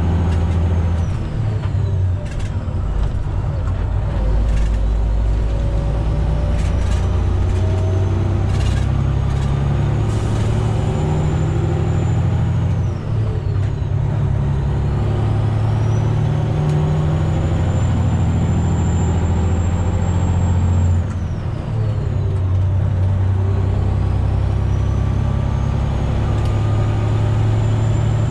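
Semi truck's diesel engine pulling away under load through the gears, with a turbo whistle that climbs as the revs build. The engine note and the whistle drop at the upshifts, about 13 and 21 seconds in.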